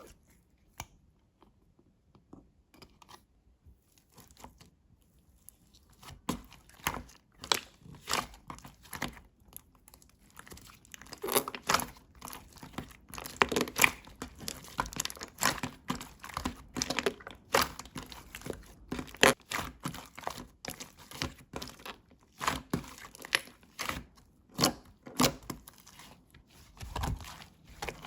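Slime being squeezed and pressed by hand, making sharp crackles and pops. Only a few faint clicks at first, then dense, loud crackling from about six seconds in.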